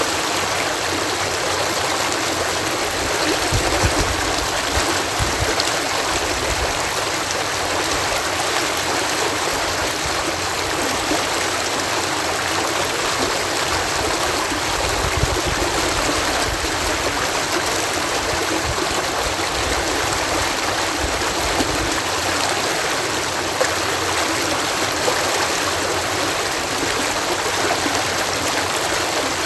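Water cascading through a canal lock, a steady rushing of falling water. A deeper rumble comes and goes under it for much of the time.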